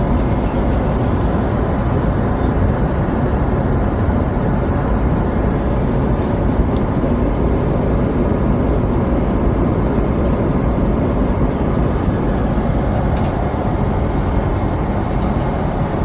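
Steady cabin noise of a jet airliner, heard from inside the passenger cabin.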